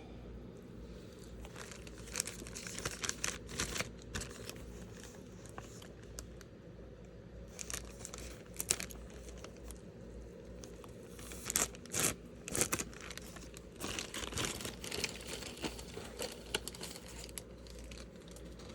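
Packaging crinkled and torn open by hand, in irregular crackling bursts, louder around two to four seconds in and again around twelve to fifteen seconds.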